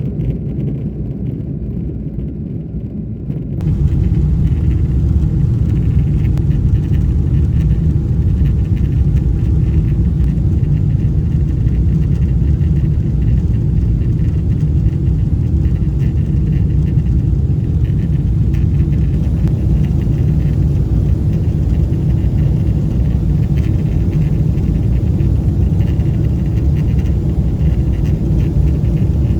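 Airliner cabin noise inside a Boeing 777-300ER in flight: a steady, deep rumble of its GE90 engines and the airflow past the fuselage. It steps up louder about four seconds in, then holds steady.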